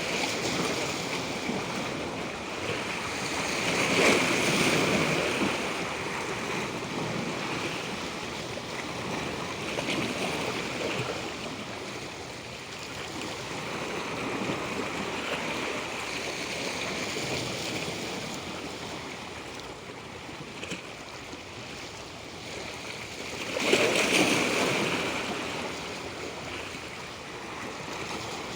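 Natural water rushing steadily, with two louder surges, one about four seconds in and one near the end.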